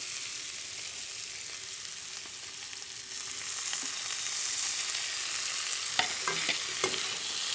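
Diced potatoes and capsicum frying in oil in an aluminium kadhai, with a steady sizzle that grows louder about three seconds in. A few sharp knocks come near the end.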